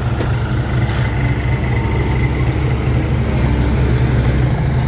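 Heavy diesel engine running steadily at an even, low note.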